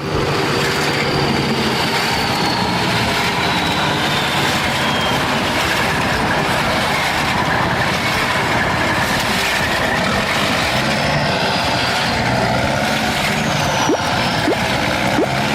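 A heavy vehicle or machine running: a loud, steady mechanical din with faint high squealing tones that slide slowly down in pitch, and a few short clicks near the end.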